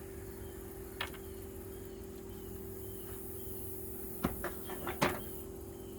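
Metal hand tools clinking as they are handled: one click about a second in, then a quick cluster of clanks between four and five seconds. A steady hum runs underneath with faint short chirps.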